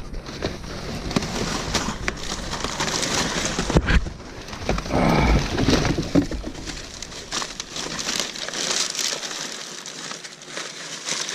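Rustling and crinkling of cardboard boxes and trash in a dumpster, with scattered knocks and a heavier thump-like stretch about five seconds in, as a person climbs in and moves the contents.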